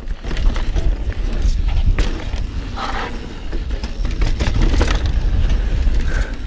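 Mountain bike rolling fast down a dirt trail: tyres on dirt and the bike rattling, with scattered sharp clicks and knocks over bumps and a steady low rumble of wind on the microphone.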